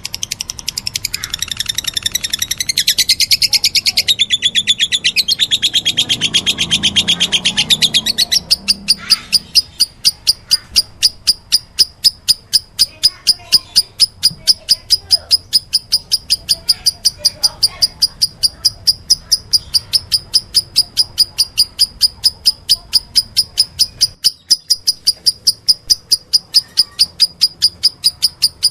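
Lovebird chirping: about eight seconds of dense, loud chattering, then a long, even series of short, sharp high calls, about five a second. These are the begging calls of a lovebird being fed.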